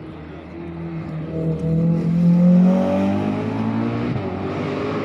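Rally car engine accelerating as it approaches and goes by, growing loud with its pitch climbing, loudest about halfway through, then dropping in pitch and fading as it passes.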